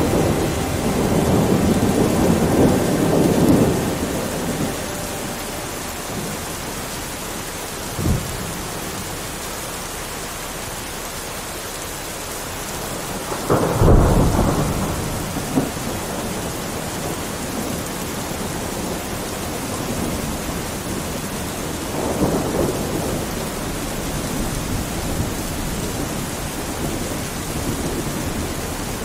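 Steady rain with thunder. A long rumble comes in the first few seconds, a short crack about eight seconds in, the loudest clap and roll at about fourteen seconds, and a softer rumble at about twenty-two seconds.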